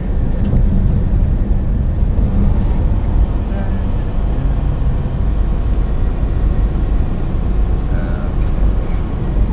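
Steady low rumble of a semi-truck's engine and road noise heard inside the cab at highway speed.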